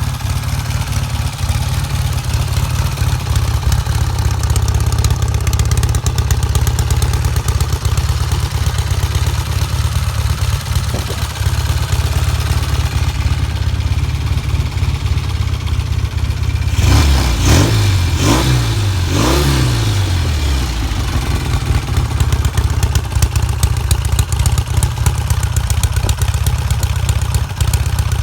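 Norton Commando 850's air-cooled parallel-twin engine idling steadily, blipped through a few quick revs about two-thirds of the way in before settling back to idle.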